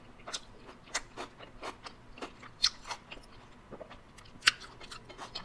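Close-up mouth sounds of a person chewing food: irregular wet smacks and crunchy clicks, a sharper one about four and a half seconds in.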